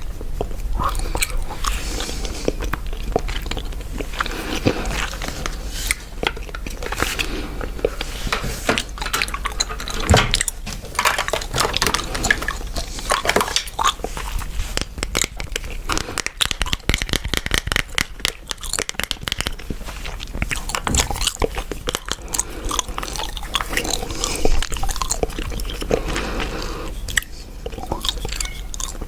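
Chewing gum being chewed close to the microphone, a dense, irregular run of small mouth clicks.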